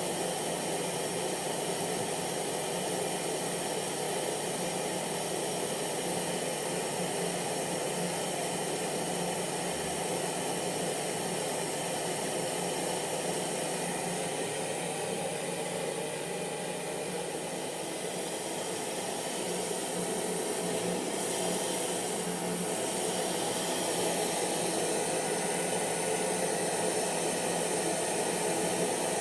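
Hair dryer running steadily: a continuous blowing rush with a steady motor hum, dipping slightly in loudness about two-thirds of the way through.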